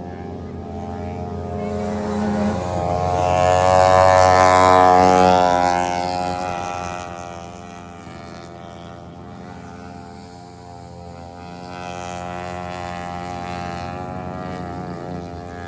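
Riding lawn mower engine running at speed, growing louder as it comes close about four to five seconds in, then fading as it moves away.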